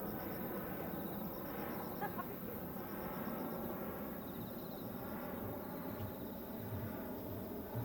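Insects chirping in short, rapidly pulsed trills that repeat every second or two over a steady background hiss.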